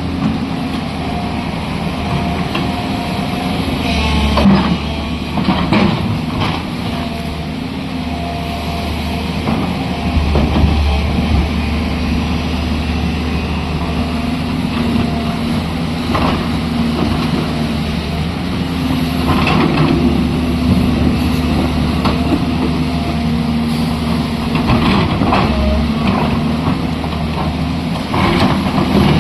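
Heavy construction machine's engine running steadily, with occasional clanks.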